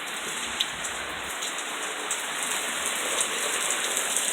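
Steady rain from a tropical storm, with a few sharp drop ticks standing out.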